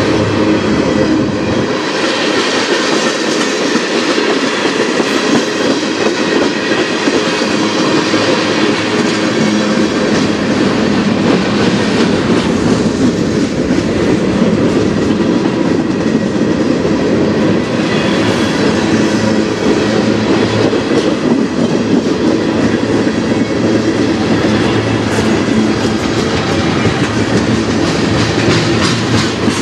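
Freight train cars rolling past at close range: loud, steady running noise of steel wheels on rail, with a continuous stream of clicks as the wheels cross the rail joints.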